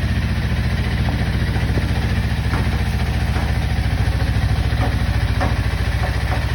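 Single-cylinder diesel engine of a patpat (single-axle tractor) running steadily in a rapid, even chug, with a few scattered clattering knocks over it.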